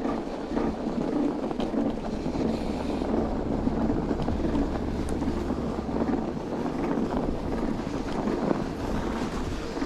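Wind buffeting the microphone over the steady running noise of an electric two-wheeler with a hub motor, riding through a snowstorm. The rider has been hearing an odd noise from a wheel, which he suspects is a delaminated brake pad or a hub-motor bearing.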